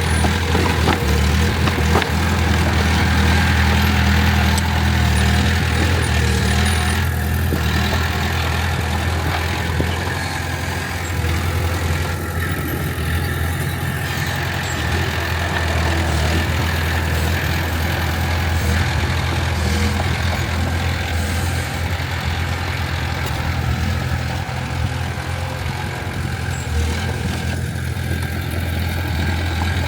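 Heavy diesel engine of construction machinery running steadily at low, even revs.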